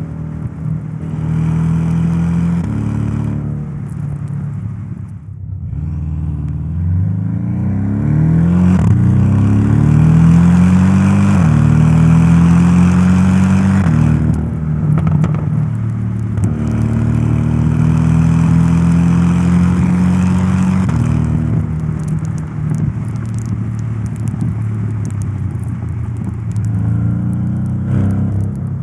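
Porsche 718 Boxster S's 2.5-litre turbocharged flat-four engine pulling under load, its note climbing in pitch twice with a drop between, as on a gear change. Near the end it settles to a lower, steady cruising note.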